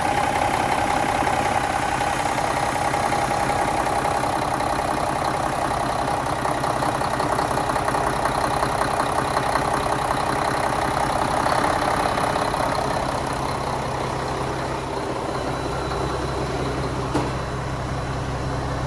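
Mack E7 inline-six diesel engine running steadily, with a steady whine over the engine note; about two-thirds of the way through it eases to a slightly quieter, lower run.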